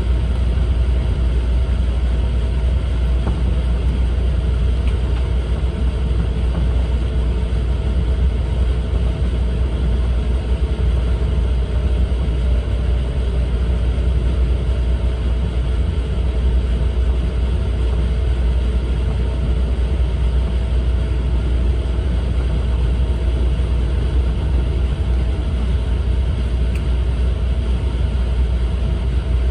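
Steady low rumble of an E4 series Max double-deck Shinkansen heard from inside the Green car, with a faint steady hum above it and no change in level.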